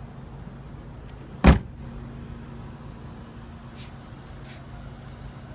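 The trunk lid of a 2015 Audi A3 sedan is shut with a single loud thump about a second and a half in, over a steady low hum.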